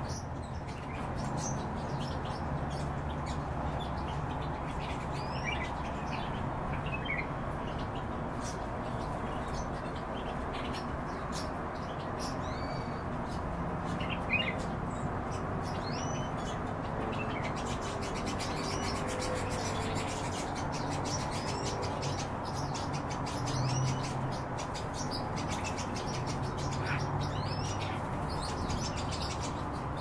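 Birds chirping: scattered short, high calls over a steady low hum.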